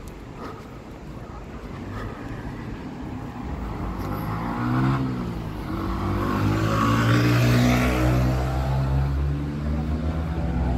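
A road vehicle's engine growing louder, its pitch rising about four seconds in, then running loudest around seven to eight seconds in before easing slightly.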